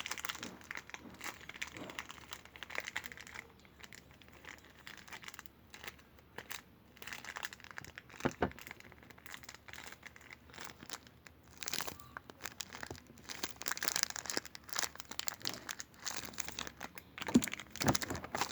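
Irregular crinkling and crumpling of something handled close to the microphone, with denser, louder stretches partway through and near the end.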